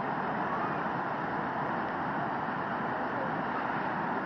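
Steady rushing of a waterfall, an even noise that holds at one level throughout.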